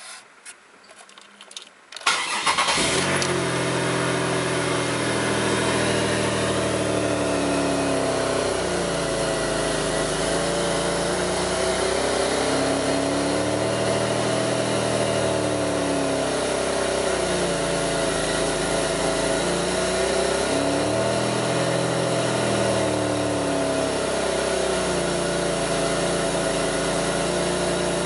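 2002 Pontiac Grand Prix 3800 V6 starting after a few faint clicks, catching about two seconds in, then idling. Its pitch sags and recovers every few seconds: a rough idle, with the faint intermittent thumping that pulls the idle down.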